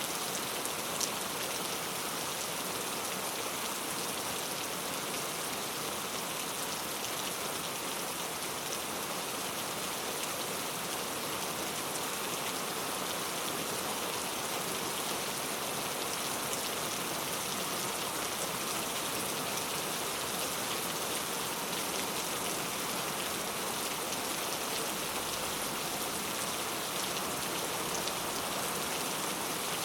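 Heavy rain falling steadily on mango tree leaves, a dense even patter with individual drops ticking through.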